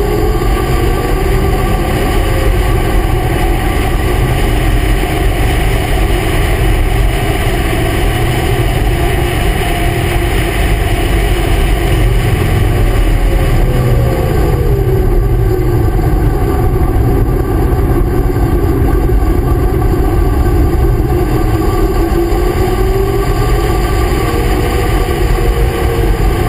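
Racing vehicle's engine at speed, heard from an onboard mount over steady wind rush. The engine note drops about halfway through as it slows, then climbs again as it accelerates.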